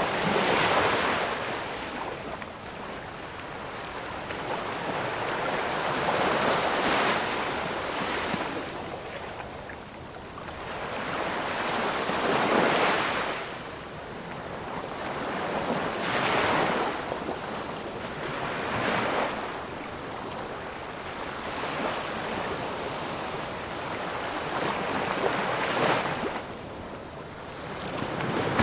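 Ocean waves breaking on a shore, surf swelling and washing in every few seconds over a steady hiss of water.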